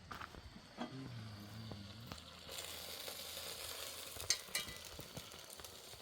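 Food sizzling in a hot pan, setting in about two and a half seconds in as a steady hiss, with a couple of sharp clicks in the middle; a short low hum sounds about a second in.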